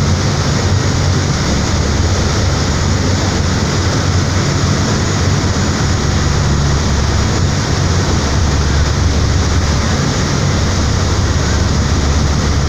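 Express Bahari 8B fast ferry under way: a steady, loud engine drone with rushing water and wind noise.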